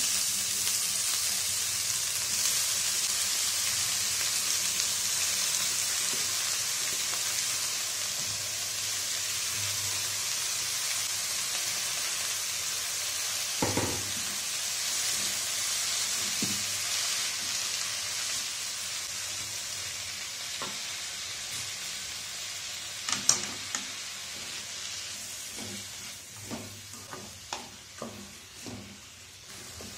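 Chopped, freshly washed red amaranth leaves sizzling steadily in hot oil in a metal kadai, the hiss slowly dying down. There are a couple of single knocks, then in the last few seconds a wooden spatula stirs the leaves, knocking and scraping against the pan.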